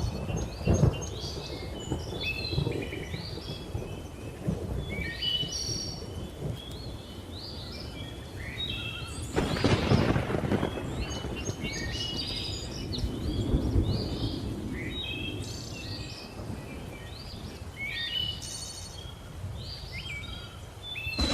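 Thunder rumbling, with one loud clap about halfway through, over many birds chirping and whistling throughout.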